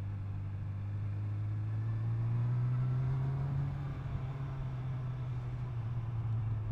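Honda CB1000R Plus's inline-four engine running at a steady cruise, its note rising a little around two to three seconds in and then easing off, with wind and road noise over the helmet microphone.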